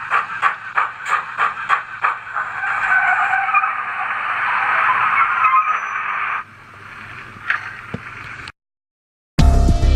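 Model steam locomotive's DCC sound decoder chuffing at about three beats a second, then a loud screeching hiss like brakes squealing as the engine stops. A softer steam hiss with a single click follows, then the sound cuts out, and music starts near the end.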